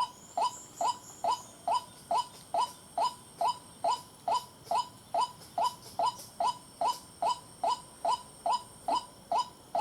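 White-breasted waterhen's call: a short, downward-bending note repeated with machine-like regularity, about two and a half times a second.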